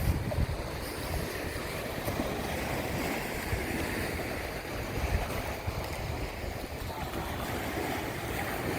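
Gulf of Mexico surf washing steadily onto the beach, with wind buffeting the microphone in low gusts.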